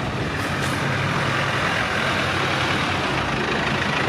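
A 4x4's engine running steadily as it drives slowly past close by, a continuous low hum.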